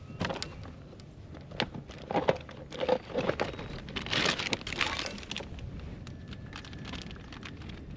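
Gear being handled aboard a fishing kayak: scattered small clicks and knocks with bursts of rustling, busiest in the middle.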